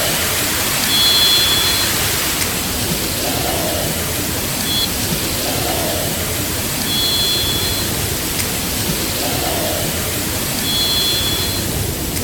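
A loud, steady hiss, with a short high call of two steady tones sounding together, one a little higher than the other, repeating four times about every three seconds; the third call is clipped short. Between the calls comes a fainter, lower gliding note. The calls are an unexplained sound that seems electronic rather than natural to a sound engineer, though he leans towards a bird.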